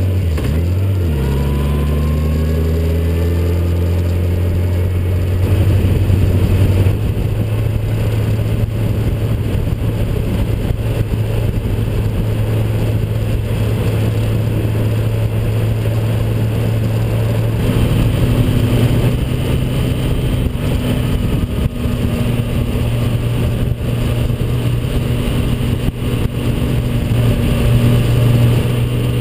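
Yamaha FJR1300's inline four-cylinder engine running at road speed, heard from the bike itself, under steady wind noise on the microphone. Its note dips and rises about a second in, then holds steady, shifting to a new pitch a couple of times along the way.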